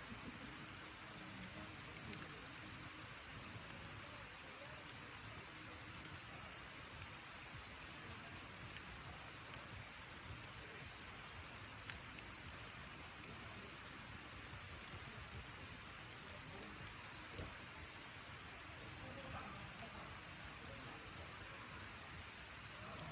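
Campfire burning the thin wood of an empty sōmen noodle box: a steady soft hiss with scattered crackles and pops.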